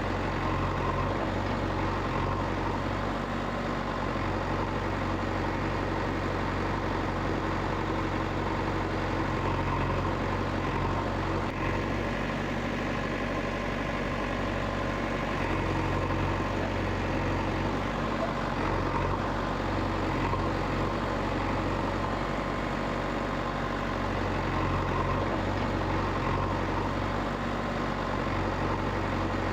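A heavy engine idling steadily, with a low hum that wavers slightly but never stops.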